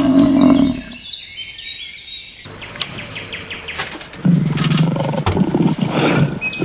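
Birds chirping in short repeated high notes. A low animal call fades out under a second in, and a low, rough animal call comes in about halfway through.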